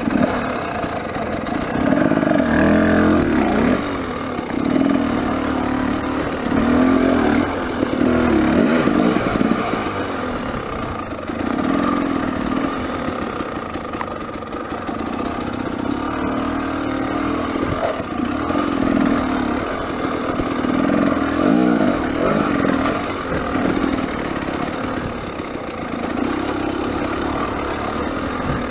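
300cc two-stroke dirt bike engine revving up and falling back over and over while riding through a rocky wash.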